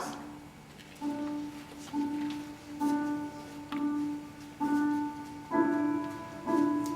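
Slow piano music: one note struck about once a second, each dying away, with fuller chords joining about halfway through.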